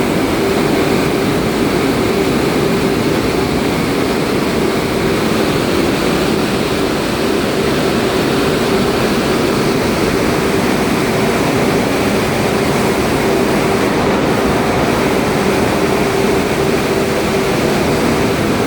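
Automatic car wash machinery running steadily: a constant loud hum over a wide rushing noise.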